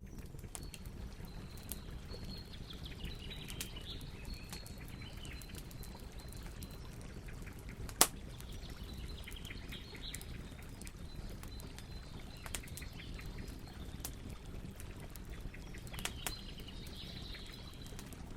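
Campfire crackling, with frequent small snaps and one loud sharp pop about eight seconds in, over a steady low noise from the fire. Birds chirp faintly in the background.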